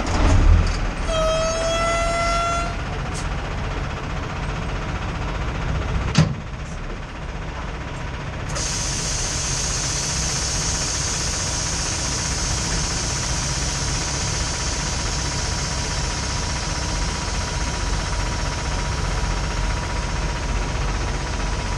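A short horn blast about a second in, one pitched note rising slightly, then a single sharp knock, then from about eight seconds a steady hiss with a faint high tone underneath. Heavy-vehicle sounds around a semi truck.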